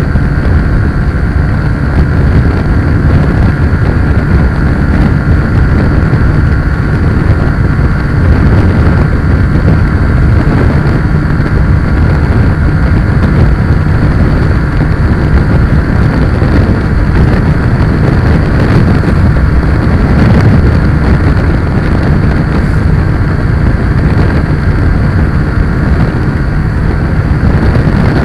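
A vehicle on the move, with a loud, steady low rumble of wind and road noise buffeting the microphone.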